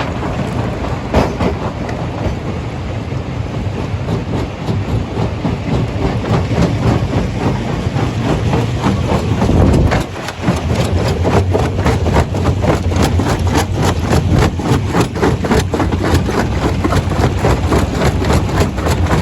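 Stone crusher running, with a continuous rattling clatter of rock over a low machine drone. About halfway through, a heavy low rumble is followed by a brief dip, then the dense clatter carries on.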